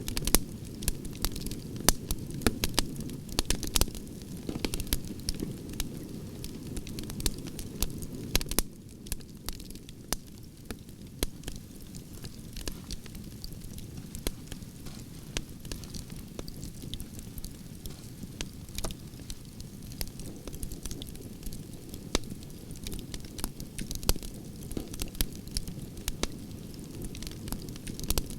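Wood fire burning, with frequent irregular crackles and pops of the firewood over a low, steady rush of flame. It gets a little quieter about nine seconds in.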